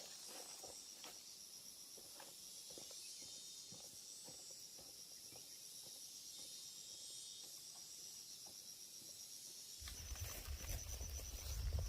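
Insects chirring steadily in one high, evenly pulsing band, with faint scattered ticks and rustles. About ten seconds in, a low rumble comes in and the sound grows louder.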